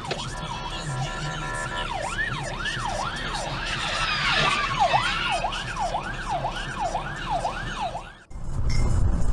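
Emergency vehicle siren: first a steady horn-like tone, then a fast rising-and-falling yelp repeating about twice a second. It cuts off abruptly about eight seconds in, giving way to loud low road rumble.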